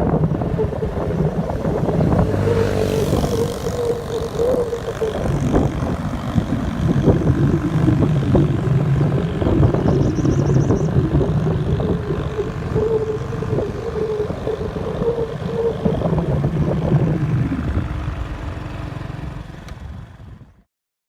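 Strong summer-storm wind gusting, with a wavering howl over a heavy rumble; it fades out near the end.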